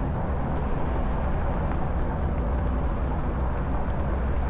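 Steady rumble and hiss of freeway traffic, with a heavy low rumble from wind on the microphone as the e-bike rides along.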